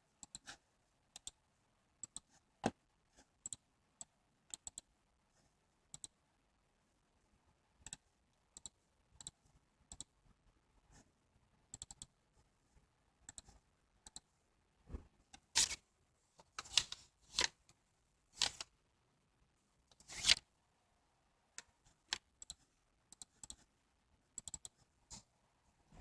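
Irregular, sparse clicking of computer keys and buttons on a laptop being set up, with a few louder knocks between about 15 and 21 seconds in.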